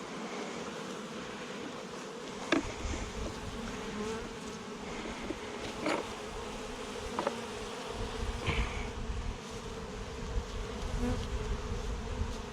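Many Saskatraz honey bees buzzing steadily around an open hive, with a few sharp clicks of hive parts being handled.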